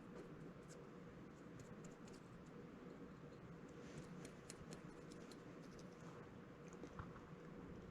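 Near silence: faint room tone with a low steady hum and scattered small clicks, bunched about four to five seconds in.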